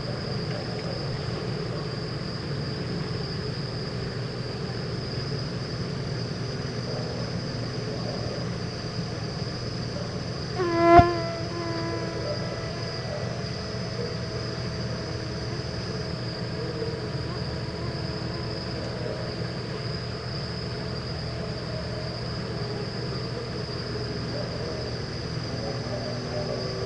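Steady chorus of insects such as crickets, with a continuous high trill over a constant low hum. About eleven seconds in, one sharp knock is followed by a pitched ringing tone that fades away over several seconds.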